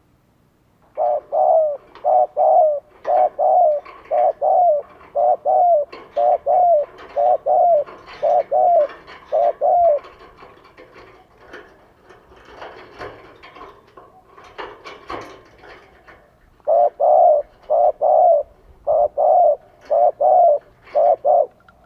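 Spotted dove cooing as a decoy call: rapid runs of short, loud coos, mostly in pairs, about one pair a second. A first run from about a second in to about ten seconds, then several seconds of fainter sounds, then a second run near the end.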